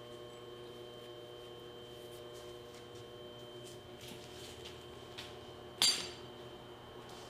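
A steady hum with a few faint ticks, then one sharp metallic clink about six seconds in, as metal hand-truck parts or tools are handled.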